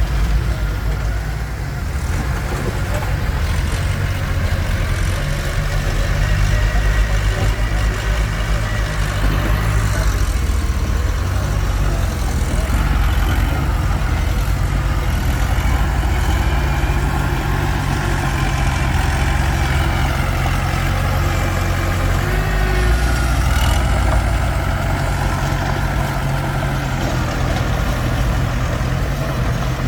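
Komatsu D21P crawler bulldozer's diesel engine running steadily under working load, its pitch and level shifting now and then as it works.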